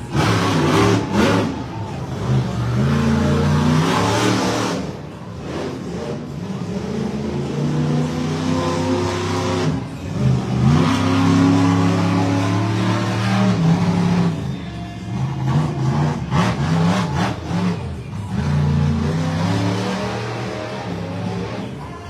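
Monster truck engine revving hard, again and again, its pitch climbing and dropping with each throttle blip and run.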